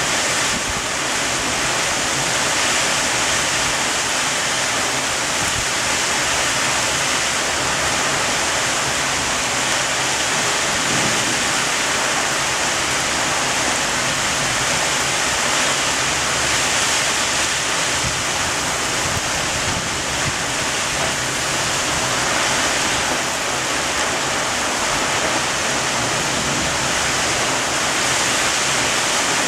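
Heavy thunderstorm rain pouring down, a steady even hiss with no single strikes.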